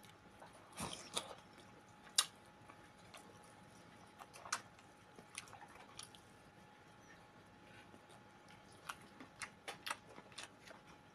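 Faint chewing of boiled chicken from soup, with short, sharp mouth clicks and smacks, the loudest about two seconds in and a cluster of them near the end.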